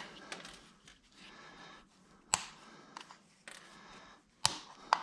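Plastic housing of a failed HVAC blend-door actuator being pried apart by hand: several sharp plastic snaps and clicks, the loudest about two seconds in and near the end, with light scraping and rustling between.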